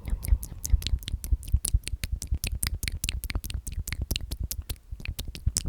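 Close-microphone ASMR mouth sounds: a fast, even run of wet clicks, about nine a second, with soft low thumps under them.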